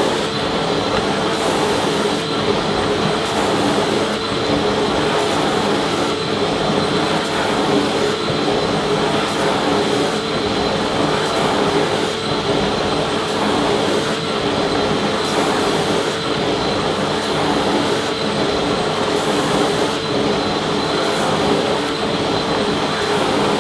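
Vacuum cleaner running steadily: an even rush of air under a constant motor hum, with a thin high whine held on one pitch.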